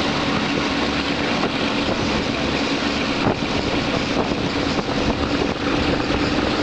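Passenger train running at speed, heard from an open window: a steady rush of wheel and wind noise with a constant low drone and a few faint clicks.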